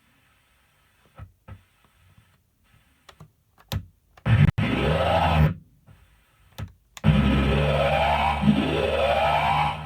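Circuit-bent late-1990s Millennium Falcon electronic sound toy glitching: soft clicks at first, then a short burst of electronic noise with rising sweeps a little past four seconds in, and from about seven seconds a loud, steady low drone with repeated rising sweeps.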